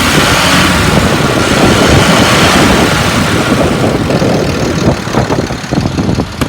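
International 4400 dump truck's DT466 diesel engine running steadily, loud for the first few seconds and easing off about four seconds in.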